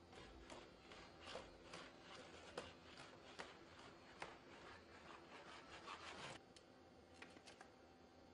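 Faint irregular taps and scraping from a Boston Dynamics SpotMini robot's feet and body working on a hard floor. The scraping stops about six seconds in, leaving a few light ticks.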